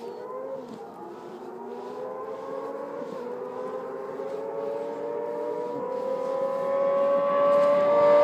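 Two sport bikes' inline-four engines at full throttle in a race, the pitch climbing through each gear and dropping at upshifts about half a second, three and six seconds in. The sound grows steadily louder as the bikes approach.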